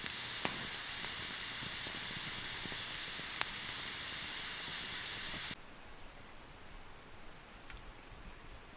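A steady hiss that cuts off abruptly about five and a half seconds in, followed by a few faint clicks.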